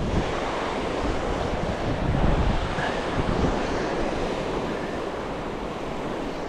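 Sea waves washing onto the shore with wind blowing across the microphone, a wave swelling slightly louder about two seconds in.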